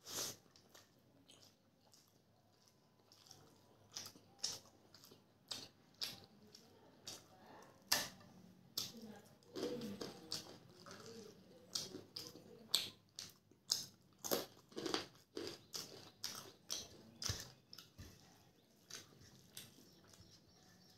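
Close-up chewing of rice and crisp papad eaten by hand, with irregular sharp crunches and soft wet mouth sounds.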